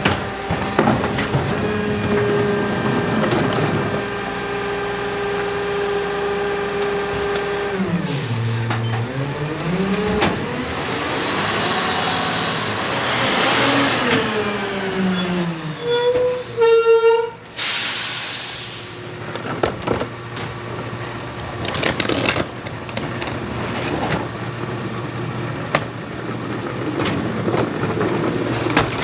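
Garbage truck with a rear-loader packer body running: the engine holds a steady high pitch, drops briefly, then revs up in a long rising whine as the hydraulics work. A short sharp air-brake hiss comes about two-thirds through, and the truck then runs at a lower, steadier pitch.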